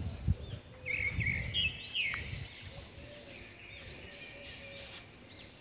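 Small birds chirping and calling repeatedly, with short high notes and little arched whistles. A low rumble underneath dies away after about two seconds.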